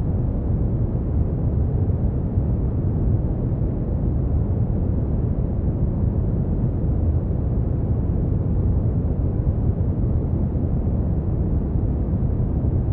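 Brown noise: a steady, deep rumbling hiss, strongest in the bass and falling off in the treble, with no changes.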